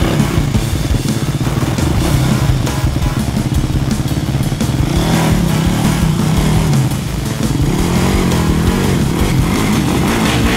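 Dirt bike engine running and being revved, its pitch rising and falling as the throttle is worked, with a brief drop in level about two-thirds of the way through.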